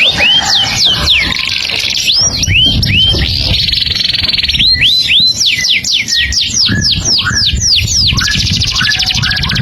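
A songbird singing a long, unbroken song: runs of sharp down-slurred whistles and rising notes, broken by two stretches of rapid buzzy trill, one about four seconds in and one near the end.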